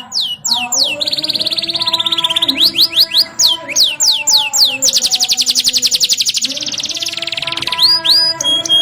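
Domestic canary singing. It gives a run of quick falling whistled notes, a fast trill about a second in, then a long, very rapid rolling trill of about three seconds, and ends on a short held note.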